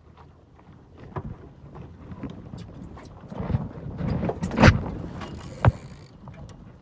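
Irregular knocks and rustling aboard a small sailboat, growing busier after about a second, with the loudest knock about four and a half seconds in and another sharp one a second later.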